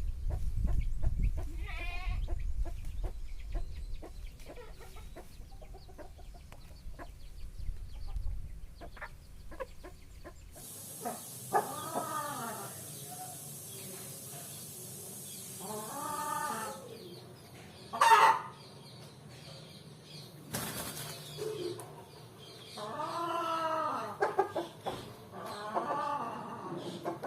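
Aseel chickens calling and clucking, several separate drawn-out calls a few seconds apart. For the first ten seconds a low rumble of wind or handling noise sits under them.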